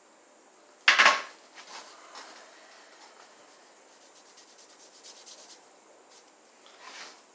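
Hand work on a car's front disc brake parts: a short loud scrape about a second in, then lighter rubbing and scraping, and one more brief scrape near the end.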